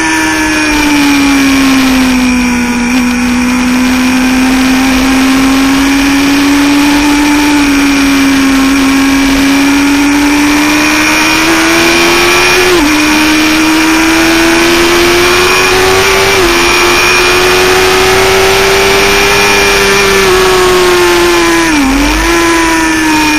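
Sportbike engine running at high revs, heard from on board the motorcycle, its pitch slowly sagging and climbing through the corners, with brief jumps in pitch around the middle and a quick dip and recovery near the end. A steady rush of wind noise runs underneath.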